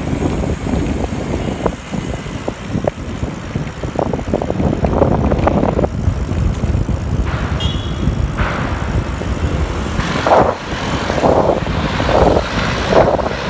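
Wind rumbling on the microphone with road noise while riding a bicycle. Near the end comes a run of short muffled swells, about one a second.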